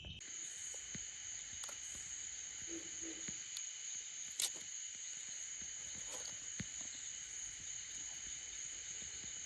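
Night insect chorus: a steady high trilling at two pitches, with scattered small clicks and one sharper click about halfway through.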